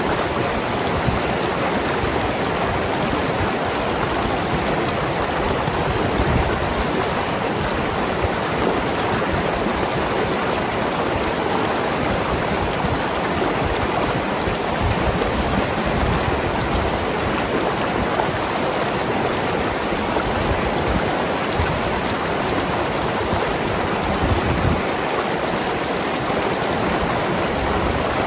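Mountain river rushing and gurgling over rocks, a steady, even wash of water noise.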